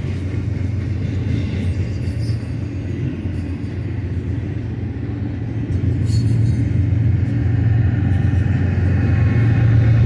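BNSF double-stack container train rolling past, a steady rumble of steel wheels on rail from the loaded well cars, growing louder about six seconds in.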